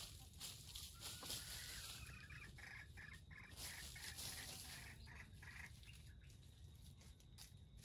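Faint bird calls: a quick run of short, evenly repeated notes, about five a second, over light rustling in dry leaves.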